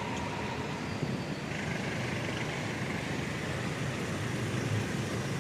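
Passenger train running, a steady rumble of wheels on the track, with a faint high steady whine joining about one and a half seconds in.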